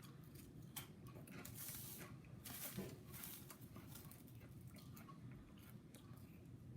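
Faint chewing and mouth sounds of a person eating, with scattered small clicks and a couple of louder crunchy smears a couple of seconds in.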